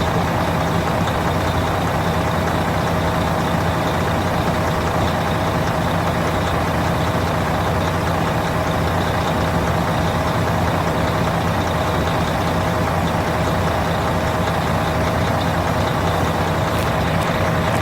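Volvo truck diesel engine idling steadily.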